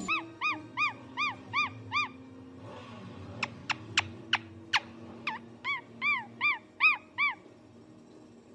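A parrot calling: a run of short whistled calls, each rising and then falling in pitch, about two and a half a second, then a few sharp downward chirps, then another run of the arched calls.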